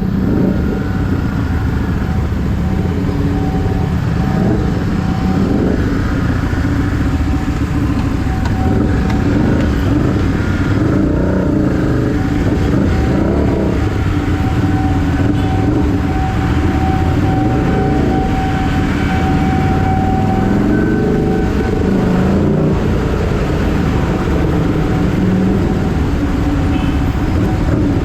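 Keeway SCR 250 V-twin engine running through a Racefit free-flow aftermarket exhaust, its pitch rising and falling with the throttle.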